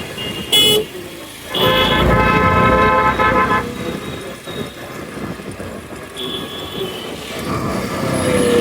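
Vehicle horns in road traffic: a short beep about half a second in, then a longer honk of about two seconds. Steady road and wind noise runs underneath.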